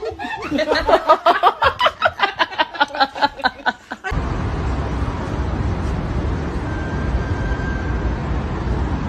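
A person laughing hard in quick, even bursts, about five or six a second. It cuts off suddenly about four seconds in, and a steady low rumbling noise takes over.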